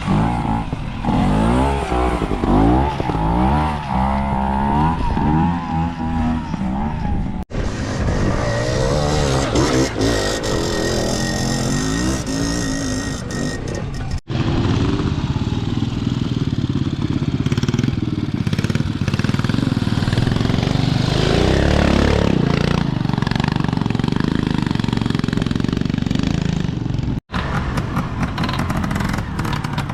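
Classic trials motorcycle engines riding an off-road section, the revs rising and falling in short blips of the throttle. The sound breaks off abruptly three times as one rider gives way to the next.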